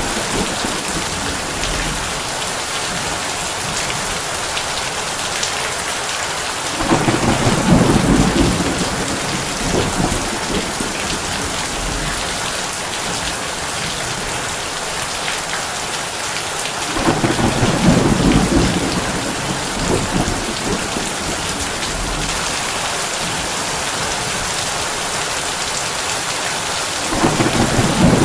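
Heavy rain falling steadily on a tin roof, with a low roll of thunder three times, about ten seconds apart, each lasting two to three seconds.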